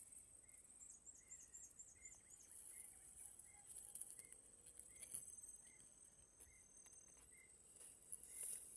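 Faint outdoor ambience: a steady high insect drone with a short chirp repeating evenly, and a brief run of about eight quick high chirps about a second in.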